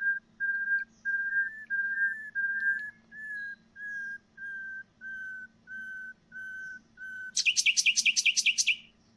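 Common nightingale singing a whistle song: about a dozen short whistles, each held at one steady pitch, drifting slightly lower over the series. Then, near the end, a fast harsh trill of about eight notes a second.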